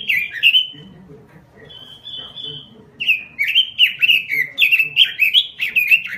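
Pekin robin (red-billed leiothrix) singing vigorously: fast runs of loud, down-slurred whistled notes, broken just after a second in by a short held high note, then a fresh rapid run of several notes a second.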